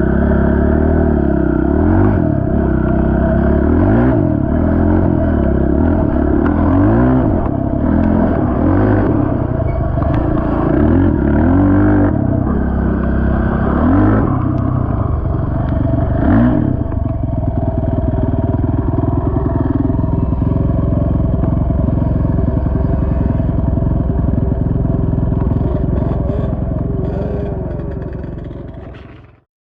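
Honda TRX450 ATV's single-cylinder four-stroke engine being ridden, revving up and down repeatedly through the first half, then running more steadily before fading out near the end.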